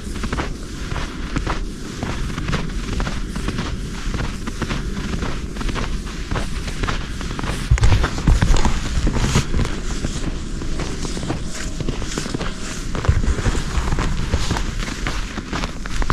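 Footsteps crunching in snow, a steady run of short crunches, with wind buffeting the microphone in low thumps now and then, loudest about halfway through.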